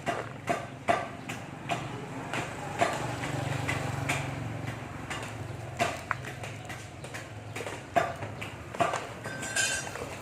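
Irregular sharp knocks and taps of hand work on metal parts of a submersible pump being repaired, over a steady low hum.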